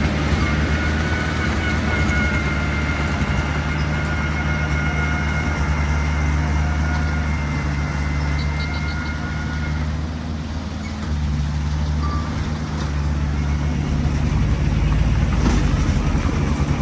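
Diesel engine of heavy earthmoving machinery running steadily, with a thin high whine over it for the first ten seconds or so. The engine note shifts about eleven seconds in and grows louder near the end.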